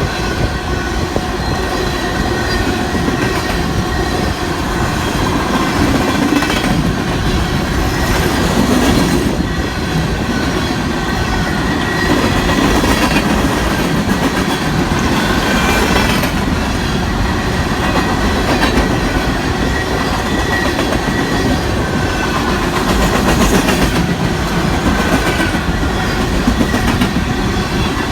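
Loaded coal train's hopper cars rolling past, a steady rumble of steel wheels on rail with clickety-clack over the joints and faint, intermittent wheel squeal.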